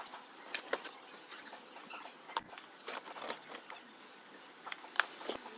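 Scattered light clicks and small scraping noises from hands and tools fitting a circuit board back into an inverter welding machine.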